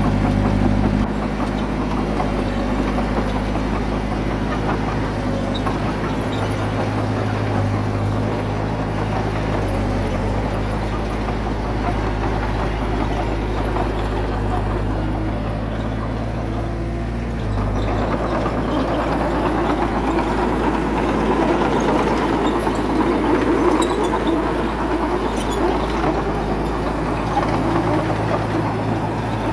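Diesel engine of heavy earthmoving machinery running steadily. A little past halfway a louder, rougher noise joins it and continues to the end.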